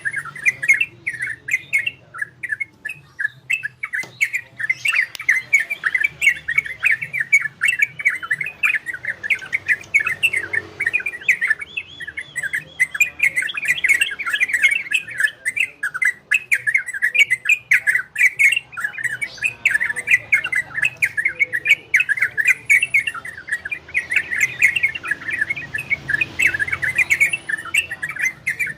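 Trocok bird singing a continuous, fast run of chattering chirps: the rapid 'ropel' style of song that bird keepers play to excite other birds into singing.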